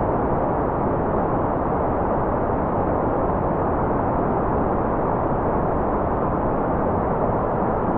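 Continuous white noise, steady and unchanging, with its weight in the low and middle range and no bright treble hiss, so it sounds like a dull, even rush.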